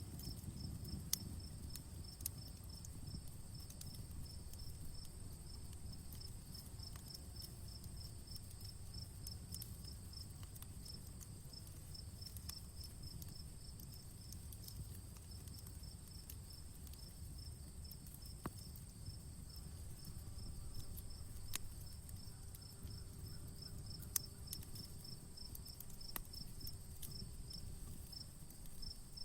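Outdoor campfire crackling, with scattered sharp pops over a low, steady rumble of burning, while crickets chirp in a rapid, even pulse alongside a constant high insect buzz.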